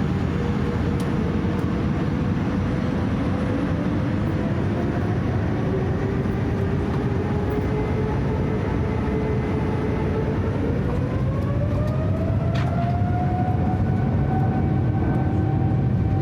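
Boeing 787-9 jet engines heard from inside the cabin: a steady deep rumble with a whine that rises in pitch from about ten seconds in as the engines spool up for takeoff.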